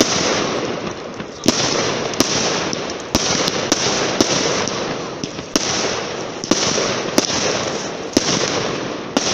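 Fireworks going off in a rapid, irregular series of about a dozen sharp bangs, one every half second to a second. Each bang is followed by a fading hiss of crackle.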